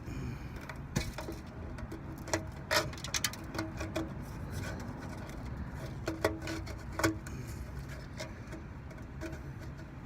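Scattered light clicks, taps and knocks of hands working at a small motorcycle gas tank, picking at loose pieces of its plastic lining, over a steady low background hum.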